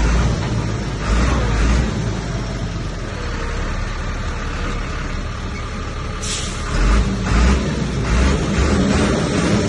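Heavy diesel machinery, bulldozer and dump truck engines, running with surges in engine power about a second in and again near the end. There is one short hiss a little past the middle.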